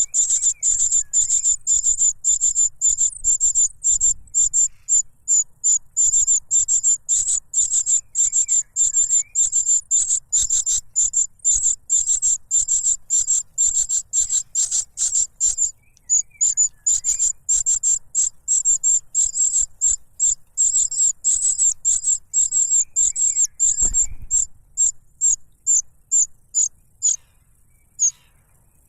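Young cuckoo begging for food: a fast, insistent string of sharp, high-pitched calls, several a second, that pauses briefly partway through and thins out and stops near the end.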